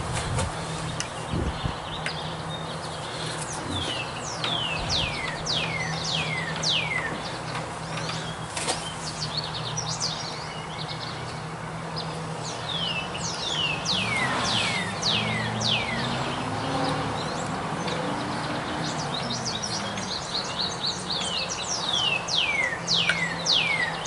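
A bird calling runs of short, quickly falling chirps, several to a run, over a steady low hum.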